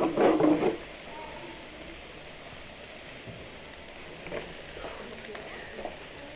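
Food frying in a small pan, a steady faint sizzle with a few light ticks.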